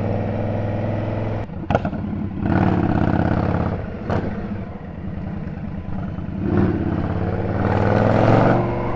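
Indian Scout V-twin motorcycle engine heard from the saddle, pulling in a low rumble and easing off several times. A rising rev climbs near the end, then drops away.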